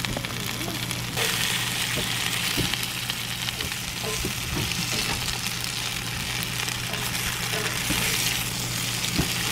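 Diced red potatoes frying in oil in a cast-iron skillet: a steady sizzle that gets louder about a second in, with occasional scrapes and taps of a wooden spatula stirring them.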